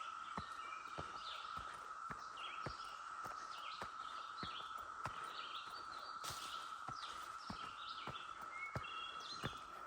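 A cicada chorus holding one unbroken, steady drone, with birds chirping over it and footsteps on the trail falling about every two-thirds of a second.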